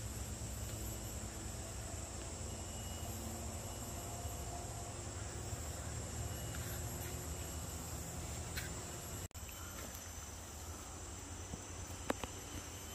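Steady forest ambience in the rain: an even hiss with a high, steady insect drone over it. The sound drops out for an instant about nine seconds in, and a sharp click comes near the end.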